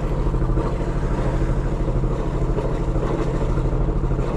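A boat engine idling steadily with an even, fast low throb.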